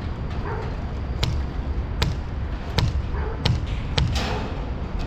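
About five sharp knocks, irregularly spaced, over a steady low hum.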